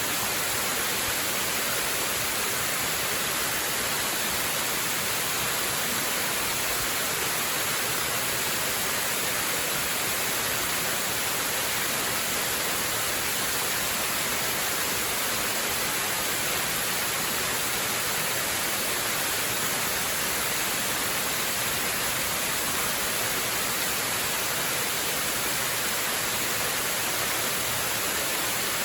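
Waterfall rushing steadily: an even, unchanging hiss weighted toward the high end.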